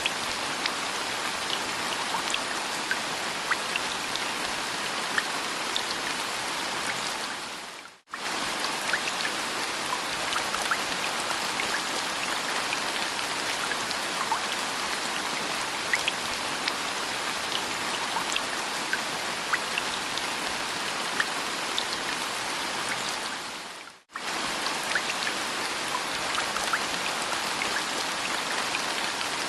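Steady rain falling, with scattered individual drops ticking. It dips away to nearly nothing and comes back twice, about 8 and 24 seconds in.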